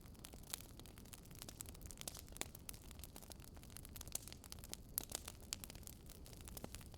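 Wood fire crackling softly: irregular sharp pops and snaps, several a second, over a low steady rumble.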